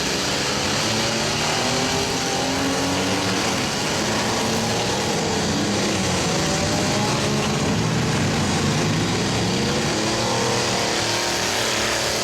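Several mini truck, mini van and SUV engines running and revving together, their pitches rising and falling over one another.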